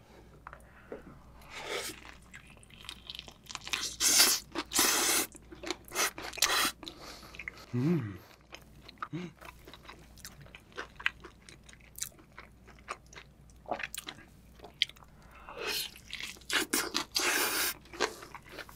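Close-miked eating of glazed, cheese-sauce-dipped fried chicken: crunchy bites and wet chewing, with the loudest runs of crunching a few seconds in and again near the end.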